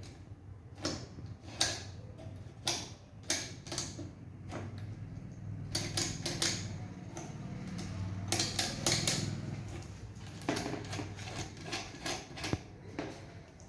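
Irregular metallic clinks and knocks, the sound of hand tools at work on an engine, over a low steady hum.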